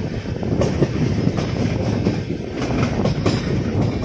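Indian Railways express passenger train running at speed: a steady low rumble of the coach with the wheels clicking irregularly over the rail joints.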